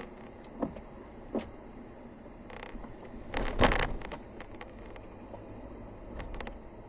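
Vehicle on the move on a forest road with a steady low rumble. Over it come several sharp knocks and rattles, the loudest a short clatter about three and a half seconds in.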